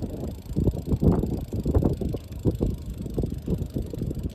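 Wind buffeting the microphone during a bicycle ride: an irregular low rumble with rapid uneven gusts and knocks.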